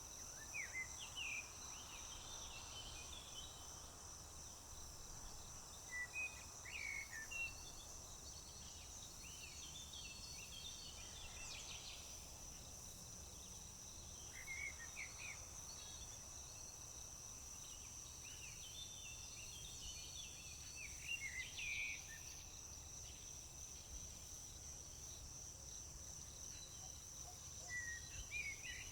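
Field and roadside summer ambience: a steady high-pitched insect chorus, crickets, trills without a break. Songbirds sing short bursts of chirping phrases every few seconds over it, with a low steady rumble underneath.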